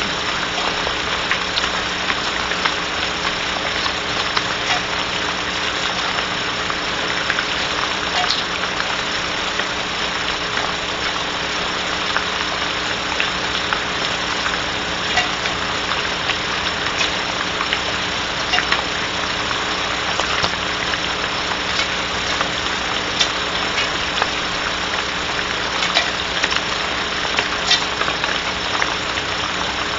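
Steady rain on a barn owl nest box, a constant hiss with scattered light ticks of drops, over a low steady hum.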